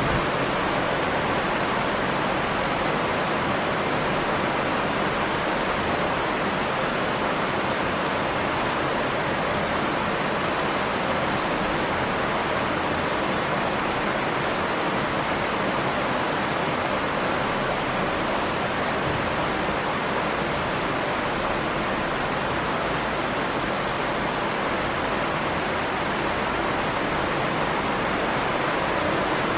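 Steady heavy rain, a continuous even wash of noise with no single drops or thunder standing out.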